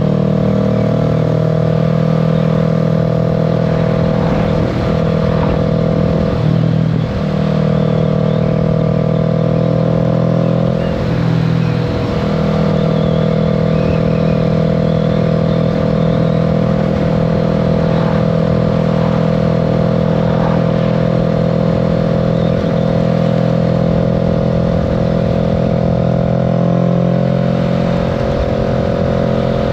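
Kawasaki Z650's parallel-twin engine running steadily under way, heard from the rider's seat. The engine note dips and climbs back about five seconds in and again about eleven seconds in.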